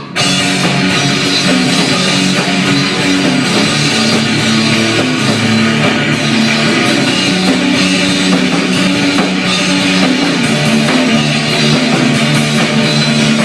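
A live rock band playing loud: drum kit and distorted electric guitar, with held notes, recorded through a phone's microphone.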